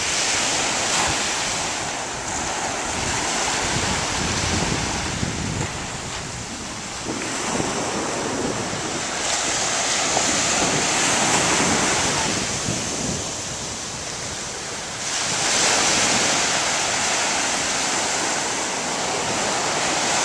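Ocean surf: waves breaking and washing in, the sound swelling and fading every few seconds, with wind rumbling on the microphone.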